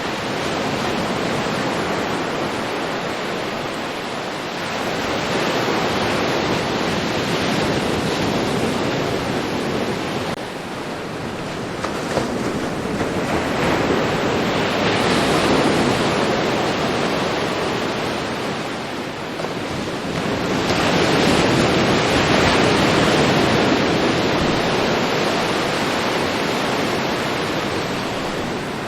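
Ocean surf washing onto a beach, a continuous rushing hiss that swells and ebbs as waves break, with the strongest surges about a third of the way in, around the middle, and again past two thirds.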